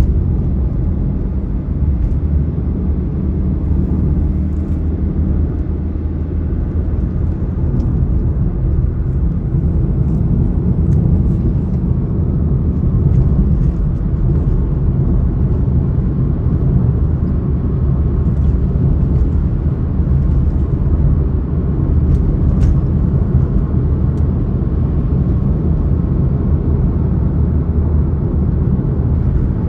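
Steady low rumble of a vehicle on the move, with road and wind noise and a few faint ticks above it.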